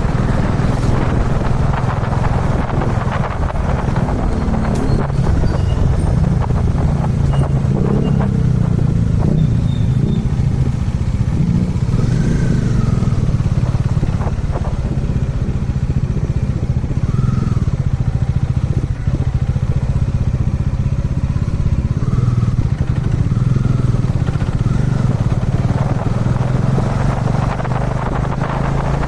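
Kawasaki Dominar 400 UG2's single-cylinder engine running steadily under the rider, with a constant low hum and no big changes in revs.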